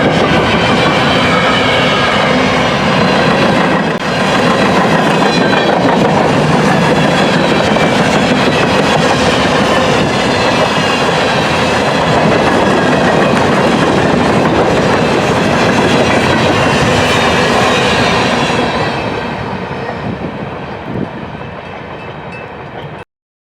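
Empty potash hopper cars of a freight train rolling past at about 40 mph, a steady loud clatter of steel wheels on the rails. The sound fades away from about 18 seconds in, then cuts off suddenly.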